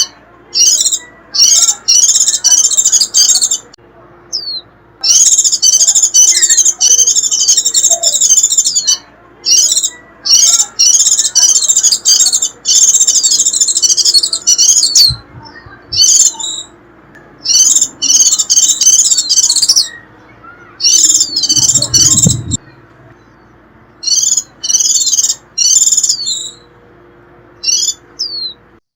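White-eye giving rapid, shrill twittering 'rít' chatter in repeated bursts of one to three seconds with short pauses between them. This is the excited call played back as a lure to draw wild white-eyes in.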